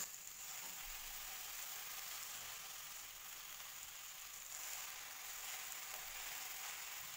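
Fresh spinach leaves, still damp from washing, sizzling softly and steadily in a hot non-stick pan as they begin to wilt.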